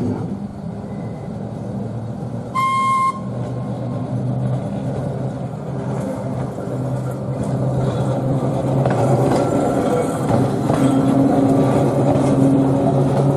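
Battery-electric Burton and Ashby tram running on rails, a continuous rumble with a steady low hum, with one short toot of about half a second around three seconds in.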